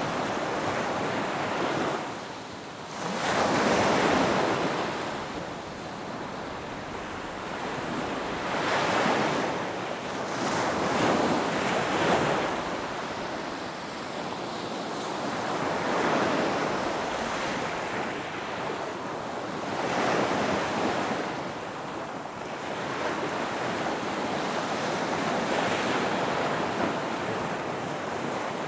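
Ocean surf breaking on a beach: a steady wash of waves that swells and recedes, with a surge about every four seconds.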